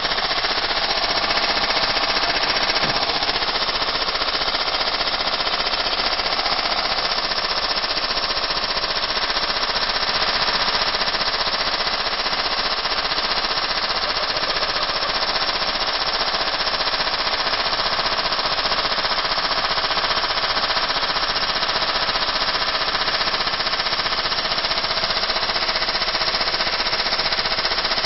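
Washing machine shaking itself apart: a loud, unbroken, rapid hammering and rattling, like a jackhammer, as the machine bangs violently on its spin.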